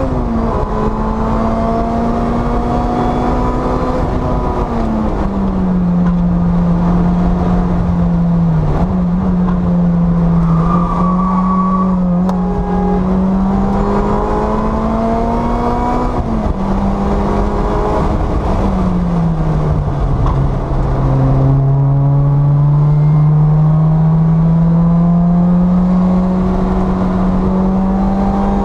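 Supercharged Toyota 2ZZ-GE 1.8-litre four-cylinder of a 2010 Lotus Exige S260, heard from inside the cabin at full track pace. It runs near 7,700 rpm, falls away when lifting and braking for corners, changes up a gear once, and climbs again under acceleration, with road and wind noise underneath.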